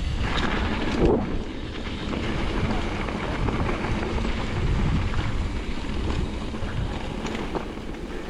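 Wind rushing over the microphone of a mountain bike rider descending a trail, with the tyres and bike rattling over the dirt and a louder knock about a second in.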